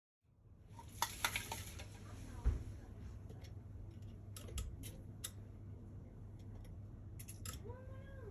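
Scattered sharp clicks and clinks, like hard objects being handled, with one heavier knock about two and a half seconds in, over a steady low hum.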